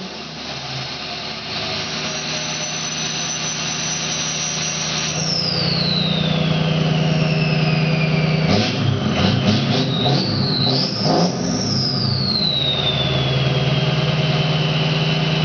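Straight-piped 2003 Ford 6.0L Powerstroke V8 diesel with its stock variable-geometry turbo whistling loudly. The whistle climbs high and holds, falls steadily in pitch, wavers through a choppy stretch in the middle, then rises and falls away again as the turbo's vane position is changed from a scan tool. The engine runs steadily underneath, a little louder from about a third of the way in.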